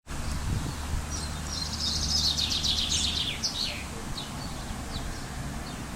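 Songbirds singing: a fast, high trill lasting about two seconds, then scattered short chirps, over a low steady rumble that fades out about three seconds in.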